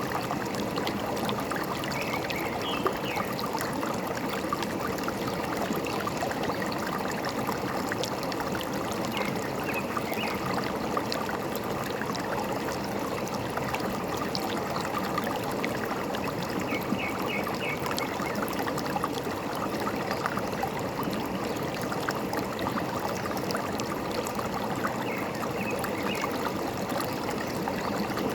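A forest stream running steadily, water trickling and gurgling over rocks. Short high bird chirps come through a few times, near the start, in the middle and near the end.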